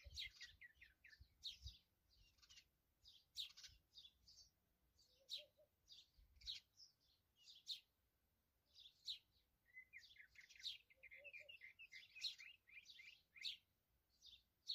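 Small birds chirping in short, high, repeated notes, with a quick run of rapid chirps about ten seconds in.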